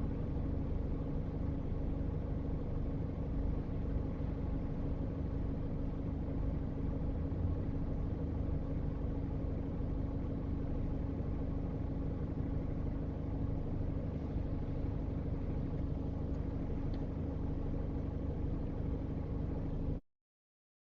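Car engine running steadily with road rumble, heard inside the car through a dash cam's microphone; the sound cuts off abruptly near the end.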